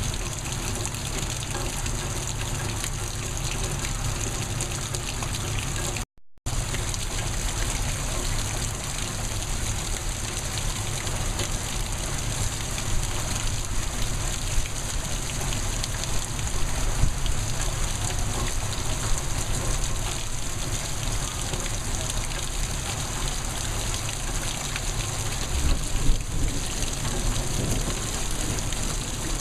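Heavy rain pouring down in a steady downpour, with a brief dropout in the recording about six seconds in.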